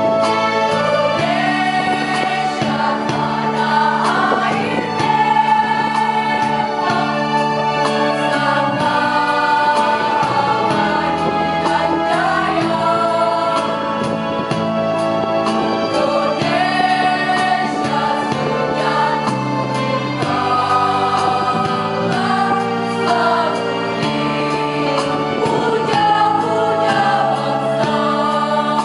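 A choir singing in parts over instrumental accompaniment with held bass notes.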